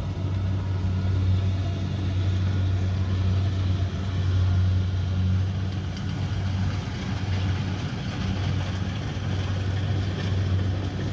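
Kubota DC70pro combine harvester's diesel engine running steadily under load, a continuous low hum that swells and eases slightly.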